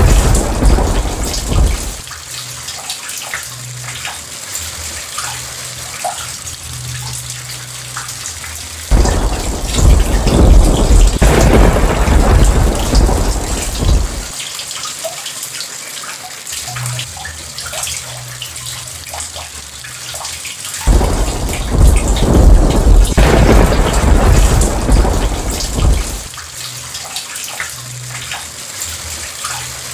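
Heavy rain falling steadily, with thunder rolling three times: a rumble fading out about two seconds in, then a louder roll starting about nine seconds in and another about twenty-one seconds in, each lasting around five seconds and ending abruptly.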